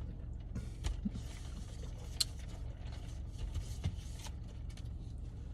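Steady low hum of a car cabin, likely an idling engine, with rustling and scattered small clicks from handling food and wrappers; one sharp click comes about two seconds in.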